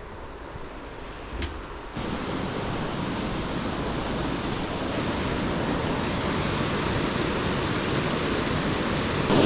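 A steady rushing noise that starts suddenly about two seconds in and slowly grows louder, with a faint click shortly before it.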